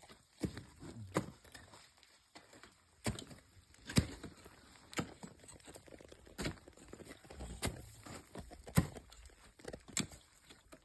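Ice tools and crampon front-points striking ice as a climber moves up, giving sharp, uneven knocks about once a second.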